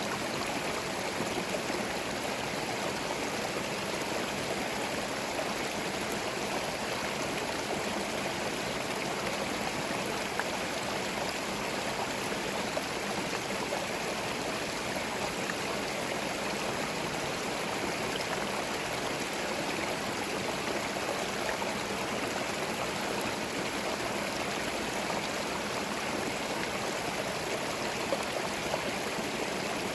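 Small forest stream flowing steadily over stones, a continuous rushing and gurgling of water.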